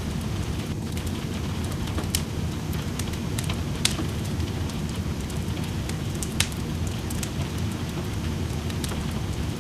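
Wood fire crackling in a fireplace, with scattered clicks and a few louder pops about two, four and six and a half seconds in, over a steady hiss of rain.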